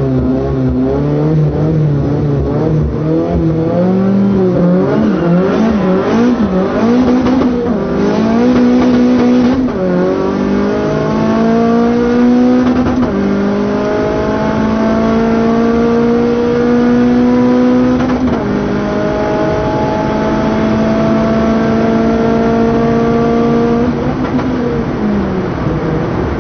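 Opel Astra F Turbo engine, heard from inside the car. It runs with a wavering pitch at first, then accelerates hard through the gears. The pitch climbs in long rising sweeps and drops back at each gear change, about 10, 13 and 18 seconds in, then falls away as the driver eases off near the end.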